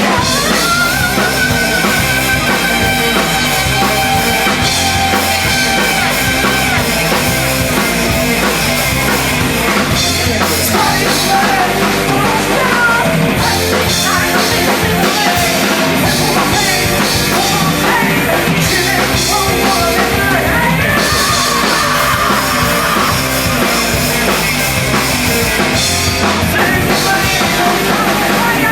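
Loud live hardcore punk/screamo band playing: distorted guitars, a pounding drum kit and yelled vocals, without a break.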